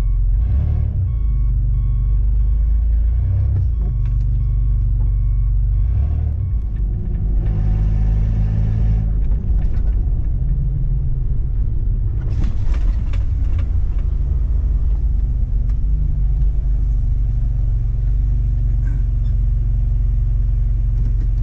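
A vehicle's engine running as it drives, heard from inside the cabin as a steady low rumble. A faint beep repeats evenly for the first several seconds.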